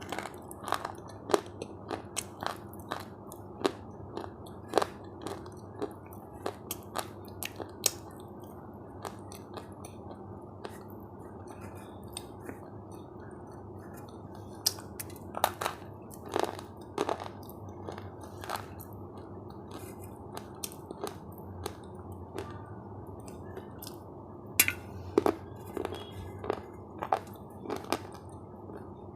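Close-miked chewing of crunchy food, with irregular sharp crunches from bites and chews throughout.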